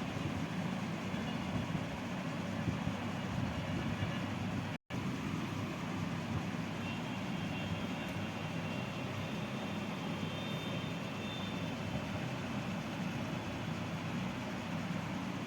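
Steady low rumbling noise without speech, of the kind that traffic or a running vehicle makes, cut by a brief full dropout about five seconds in.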